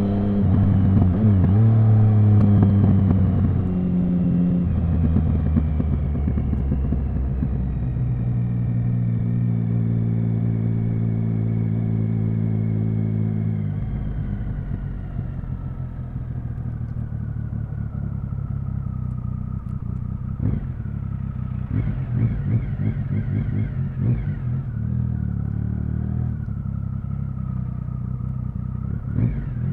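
Triumph Speed Triple 1050's inline three-cylinder engine running under steady throttle for about the first half. About halfway through the throttle is closed and it drops to a lower, quieter running sound, with a few short blips later on.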